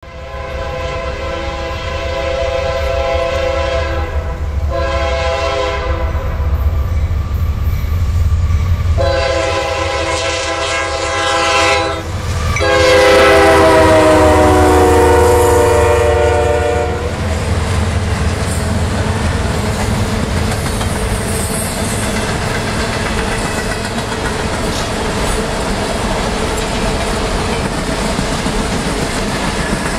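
CSX freight train's horn sounding four blasts, long, short, long and a final long one that drops in pitch as the lead GE diesel-electric locomotive goes by, over the low rumble of its engines. Then the loaded boxcars roll past with a steady rumble and wheel clatter.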